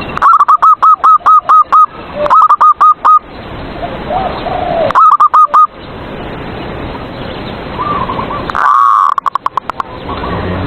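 Zebra dove (perkutut) song: three runs of quick staccato coos, about five notes a second, in the first six seconds, with fainter coos between them and one louder call near the end. The loudest notes are loud enough to distort.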